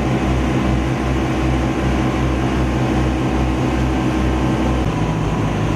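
A motor engine running steadily with a regular low throb; its pitch shifts down slightly about five seconds in, as with a change in throttle.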